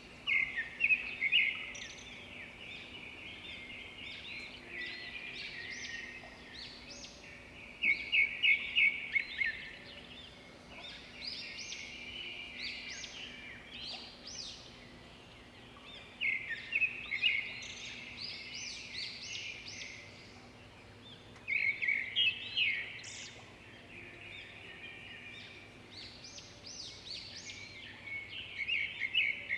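Birds singing: loud bouts of rapid, repeated chirping notes come about every six to eight seconds, with softer chirping and twittering in between.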